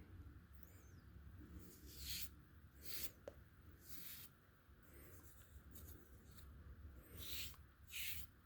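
Limestone being rubbed flat: several short gritty scraping strokes at irregular intervals of about a second, with a low hum underneath.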